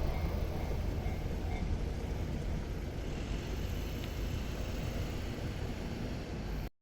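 Train running past at a railway level crossing, a steady rumble that slowly fades as it moves away, then cuts off abruptly near the end.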